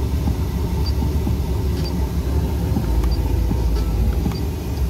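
Volkswagen up!'s three-cylinder engine idling, a steady low rumble heard from inside the cabin, with a few faint short beeps from the head unit's buttons.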